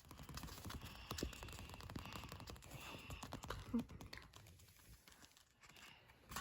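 Faint handling noise: scattered small clicks and soft rustling, dying down near the end.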